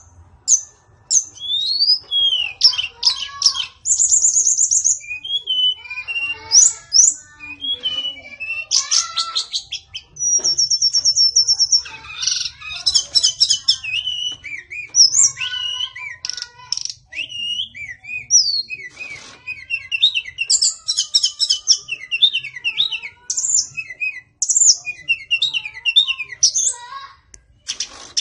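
White-rumped shama (wild forest 'murai hutan') singing a long, varied song of clear whistles, downslurred notes, fast trills and rapid chattering runs, phrase after phrase with short pauses.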